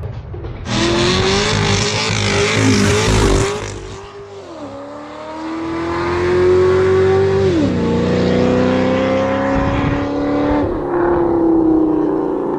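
Supercharged LSA V8 of a 2013 Cadillac CTS-V accelerating hard, its note climbing steadily in pitch and dropping back sharply three times as it shifts up through the gears.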